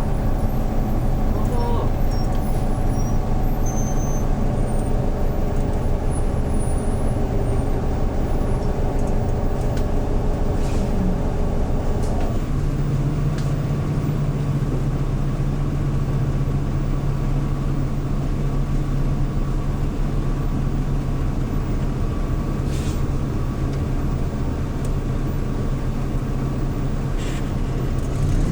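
Hyundai New Super Aero City CNG city bus engine running on the move, heard from inside the bus: a steady low drone with several tones. About twelve seconds in, the higher tones fall away and a lower, stronger hum takes over as the engine note changes.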